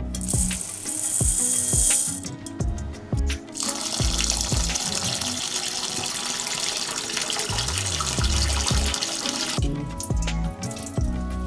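Water running from a kitchen tap in two spells, a short one at the start and a longer one of about six seconds from a few seconds in, over background music with a steady beat.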